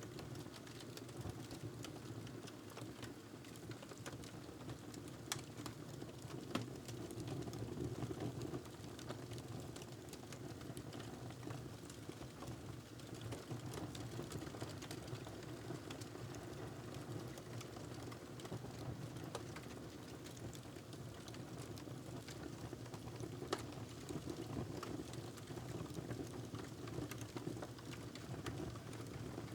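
Wood fire crackling in a fireplace: a steady low rush with frequent small crackles and a few sharper pops.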